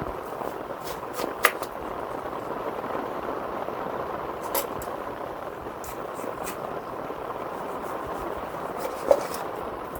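Heavy rain falling steadily on a tent or tarp, with a few sharp knocks, the loudest about a second and a half in and near the end.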